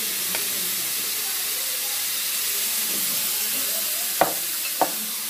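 Batter-coated chicken skewers sizzling steadily in an oiled grill pan, with two short sharp taps near the end.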